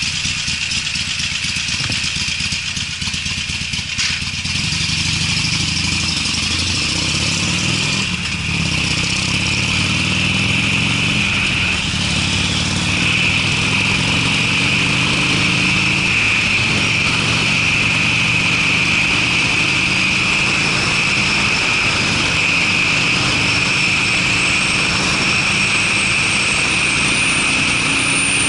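Harley-Davidson Sportster's air-cooled V-twin running through Screamin' Eagle mufflers while riding: the engine note climbs and drops back a few times as it pulls through the gears, then holds fairly steady at speed, under a steady rush of wind.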